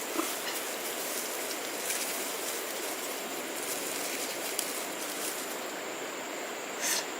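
Steady, even rushing noise with a thin, steady high tone above it and a few faint clicks.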